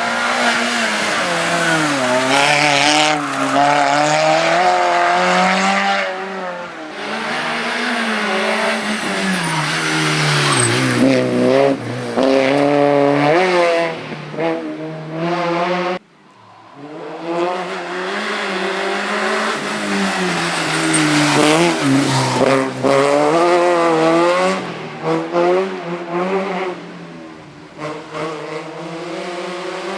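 Race car engine being driven hard through a slalom course, its pitch rising and falling again and again with throttle and gear changes. It cuts off sharply about halfway through, then another run of the same kind of engine sound follows.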